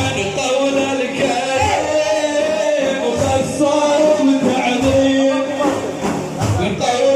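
Men singing a manqaba, Islamic devotional praise of the Prophet, in long held wavering lines, with deep drum beats about every second and a half.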